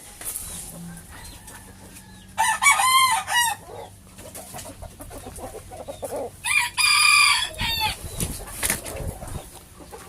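Bantam rooster crowing twice, each crow a bit over a second long and several seconds apart, with softer chicken sounds in between.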